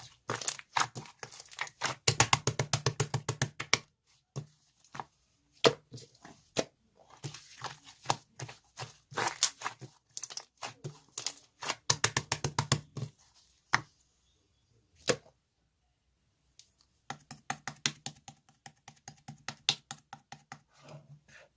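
Rapid clicks and taps in bursts of a second or two, up to about fifteen a second, separated by short pauses.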